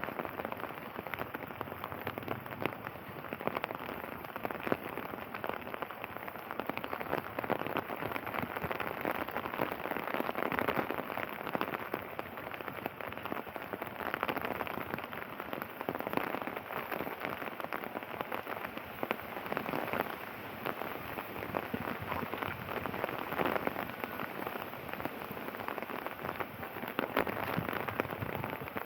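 Steady rain falling: a dense, even patter of raindrops.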